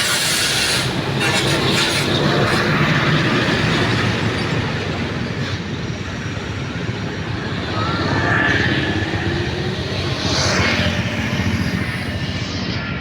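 Heavy diesel vehicle engines running loud and steady.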